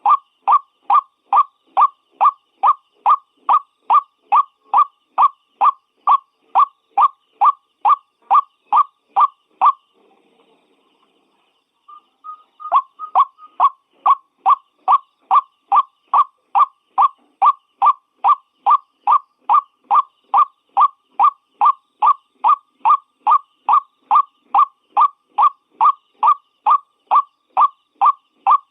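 White-breasted waterhen calling: a steady series of short, repeated notes, a little over two a second. The series breaks off for about two seconds a third of the way in, then picks up again with a few uneven notes before settling back into the rhythm.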